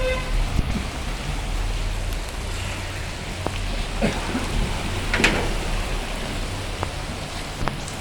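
Steady rain falling, with single drops striking hard surfaces now and then. A brief, brighter sliding sound rises above it about five seconds in.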